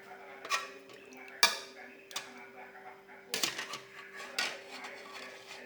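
Cutlery clinking and scraping against a bowl while eating bakso: several sharp clinks, the loudest about one and a half seconds in.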